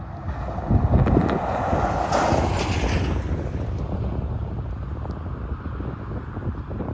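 Wind buffeting the microphone in a low, uneven rumble that swells about a second in and slowly eases off.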